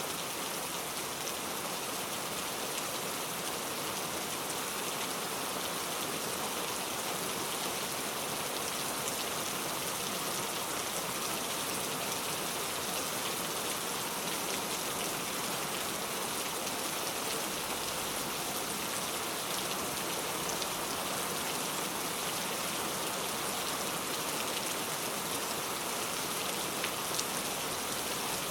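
Steady rainfall, an even hiss of rain with scattered drops striking a surface.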